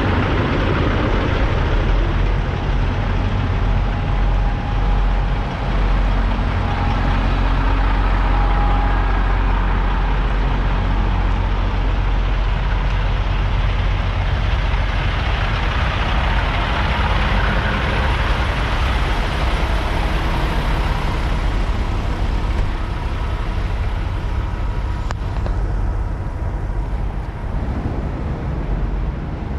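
Semi-trucks running at a truck stop, a steady heavy low rumble with road-vehicle noise over it.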